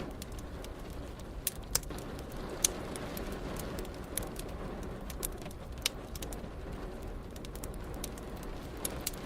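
Wood fire crackling in a fireplace: irregular sharp pops and snaps, a few louder ones in the first three seconds, over a steady low rumble.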